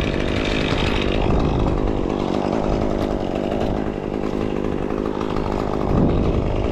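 Chainsaw running steadily at a fairly even level.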